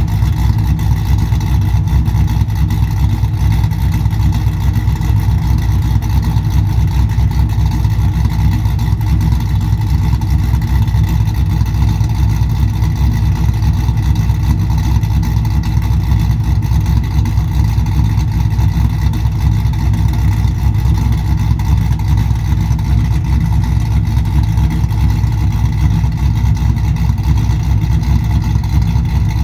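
A 2001 Camaro Z28's cammed 6.0-litre V8, with an LS3 top end and a 227/231 camshaft, idling steadily as it warms up after a cold start.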